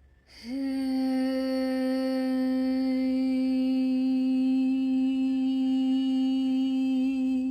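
A woman's voice humming one long, steady note, sliding up into pitch at the start and held for about seven seconds, as sound-healing toning.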